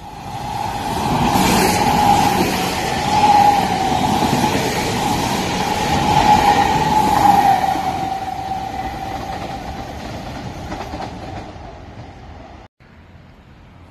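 Tilt train passing at speed. The wheel and rail noise builds over the first two seconds and stays loud through the middle, with a steady whine running through it. It then fades as the train goes away, and cuts off suddenly near the end.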